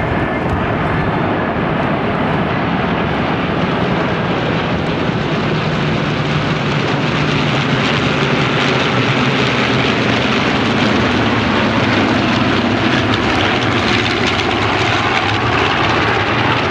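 A massed formation of about forty propeller-driven warbirds flying overhead, their engines making a dense, steady drone together that grows a little louder past the middle.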